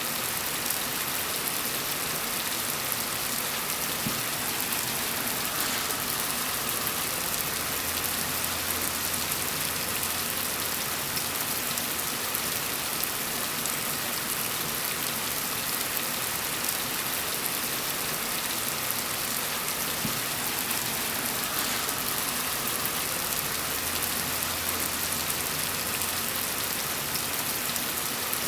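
Steady, even rain falling on surfaces, a dense, fine patter with no break. A faint low rumble rises under it twice, about a third of the way in and again near the end.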